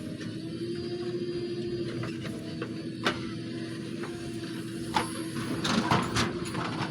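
Diesel engine of heavy earthmoving machinery running steadily with a held hum. There are sharp knocks at about three and five seconds in, and a short spell of clattering around six seconds in.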